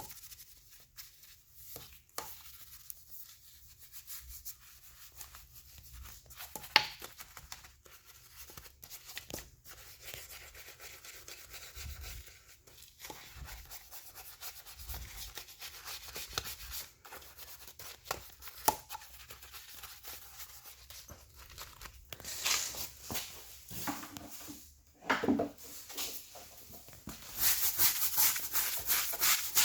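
Detailing brush scrubbing a wet car wheel: soft, scattered rubbing strokes that grow into louder, rapid back-and-forth brushing near the end.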